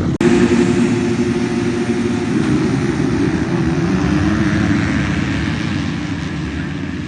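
Vehicle engine running steadily, fading slightly near the end, right after an abrupt cut at the start.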